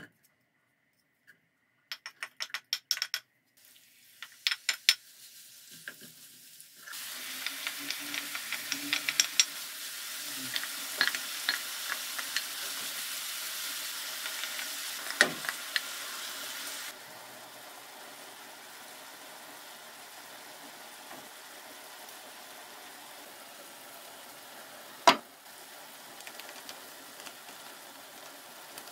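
Chicken and vegetables sizzling in an oiled frying pan, with the clicks and scrapes of a utensil stirring them. About halfway through the sizzle drops to a quieter steady hiss, and a single sharp knock comes near the end.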